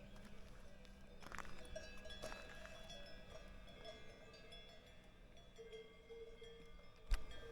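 Cowbells on grazing cows clanking, several bells at different pitches ringing and overlapping irregularly. A sharp knock near the end.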